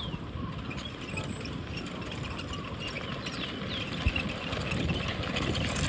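A vehicle running with a steady low rumble and rattle, with a few short high chirps over it.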